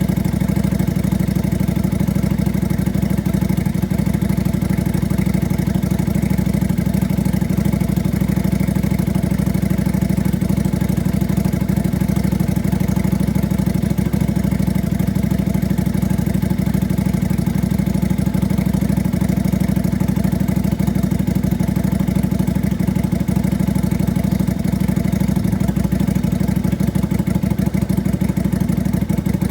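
Lifan Lycan 250's V-twin motorcycle engine idling steadily, freshly serviced with its valve clearances set and ignition retimed.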